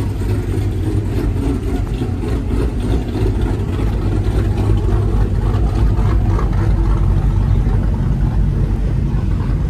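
Car engine running loudly close by, a steady deep sound that grows a little louder partway through.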